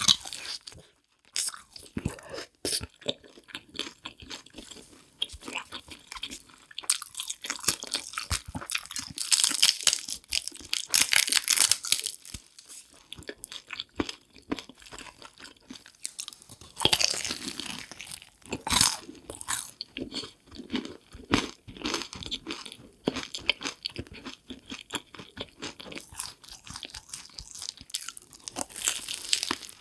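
A person chewing and crunching food in a run of crackling bites, loudest around ten seconds in, again near seventeen seconds and near the end.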